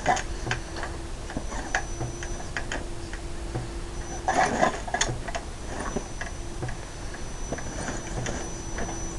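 Radio-controlled crawler truck driving: its electric motor and gearbox give a steady whine that starts and stops, over irregular clicks and ticks. A louder rustling scrape comes about four seconds in.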